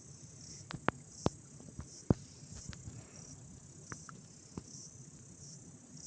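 Crickets chirping steadily in a high, pulsing band, with a few irregular sharp clicks and knocks in the first couple of seconds, the loudest about two seconds in.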